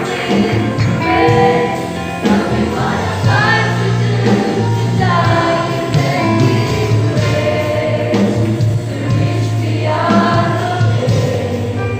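Youth choir singing a gospel song, with sustained low notes of accompaniment underneath.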